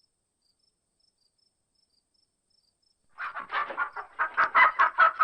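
Chicken clucking, a quick run of short calls at about five a second, beginning about three seconds in.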